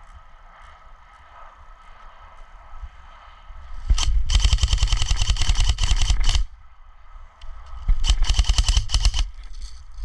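Airsoft gun firing two long bursts of rapid shots close by: the first lasts about two and a half seconds, and a shorter one follows about a second and a half later.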